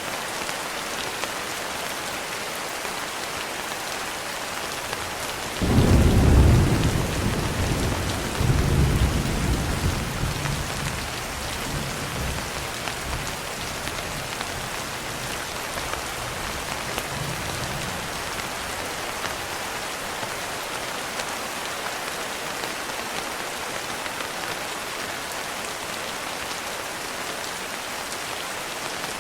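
Steady rain falling, with a thunderclap about six seconds in that rolls on in a deep rumble, swells again a few seconds later, and fades away over about twelve seconds.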